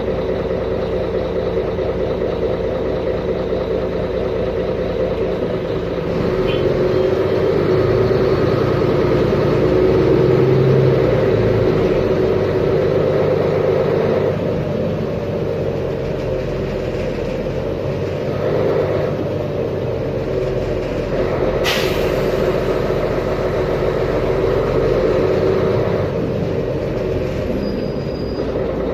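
Mercedes-Benz Conecto G articulated bus's OM457LA inline-six diesel engine running as the bus drives, getting louder from about 6 s in and easing off again around 14 s. About three-quarters of the way through there is one short sharp sound.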